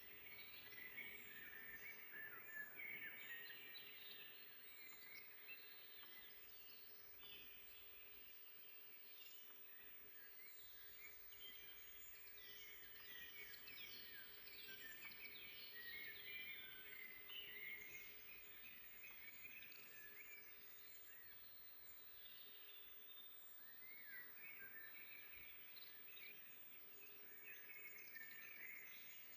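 Several songbirds singing and chirping at once in a forest, a busy overlapping chorus of short trills and calls, faint, over a soft background hush.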